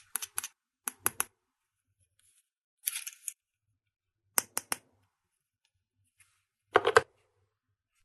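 Small plastic toy pieces being handled and set down, giving short sharp clicks and taps in five small groups, with a brief crinkly rustle about three seconds in. The loudest group comes near the end.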